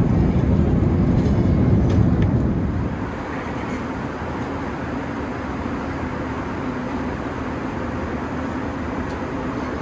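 Airbus A380 cabin noise in flight: a steady rush of air and engine noise. It carries a heavier low rumble for about the first three seconds, then drops to a quieter, even hiss.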